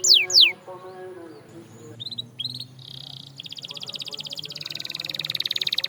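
Canary singing: a few falling whistled notes, a short pause with scattered chirps, then a fast, rolling trill that grows louder.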